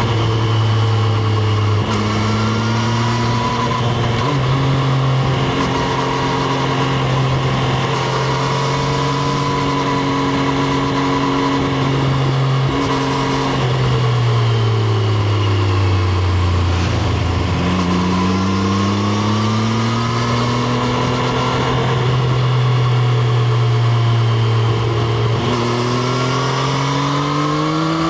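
Triumph Street Triple RS motorcycle's 765 cc inline-three engine heard from onboard while riding, holding steady revs for long stretches. About halfway through the revs fall away as the bike slows, then pick up again, and they climb once more near the end.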